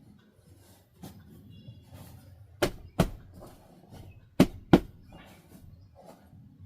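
Four sharp knocks in two quick pairs, the two knocks of each pair a third of a second apart and the pairs about a second and a half apart.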